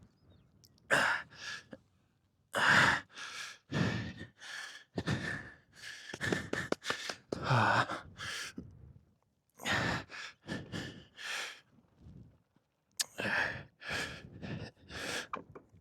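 A man breathing hard into a close microphone: a long run of quick, audible breaths in and out with short gaps between them, as he catches his breath after riding.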